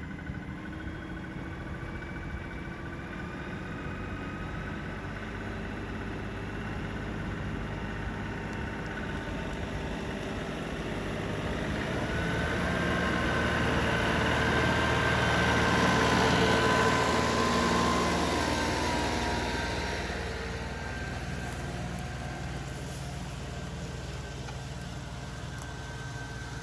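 Diesel compact tractor engine running steadily, growing louder toward the middle and then easing back.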